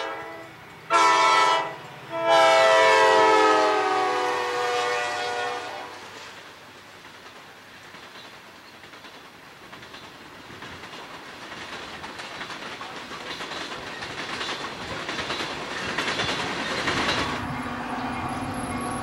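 Diesel locomotive air horn on a CSX coal train sounding a chord: the end of one blast, a short blast about a second in, then a long one that trails off after about five seconds, the close of a grade-crossing signal. Then the wheels of the passing coal hoppers run steadily on the rails with a clickety-clack, growing louder, until a cut near the end brings a steady low hum.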